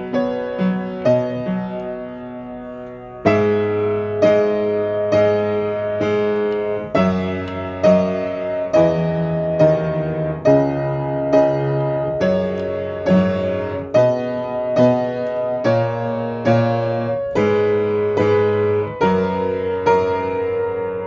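Solo piano playing a slow, tender ballad, with sustained chords struck in an even rhythm after a quieter opening few seconds.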